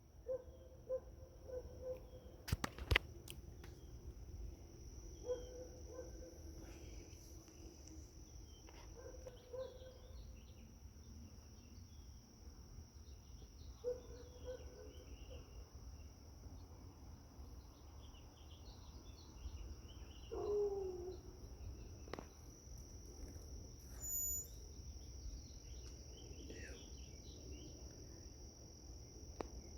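Faint outdoor ambience: insects keep up a steady high drone while short, low bird calls come every few seconds, with one longer warbling call about twenty seconds in. A few sharp clicks come near the start.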